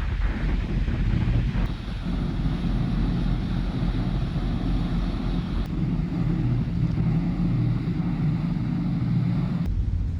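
Ferry at sea: a steady low engine hum under the rush of wind on the microphone and waves, changing abruptly about three times as the shots cut.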